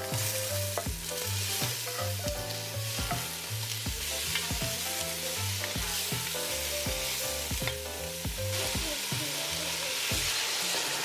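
Browned pork meatballs and sliced onions sizzling in a hot stainless steel pot, stirred with a wooden spoon. Near the end, water poured into the hot pot hisses louder.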